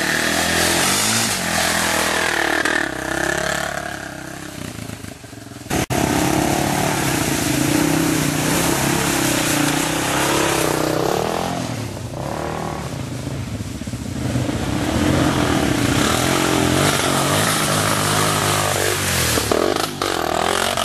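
Single-cylinder four-stroke dirt-bike engine revving up and down under load, the pitch rising and falling repeatedly; the sound breaks off sharply about six seconds in and then carries on.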